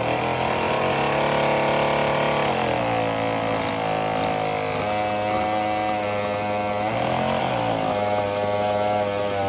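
Vintage two-stroke chainsaw engine running. Its pitch drops about two and a half seconds in, then dips briefly and comes back up near seven seconds.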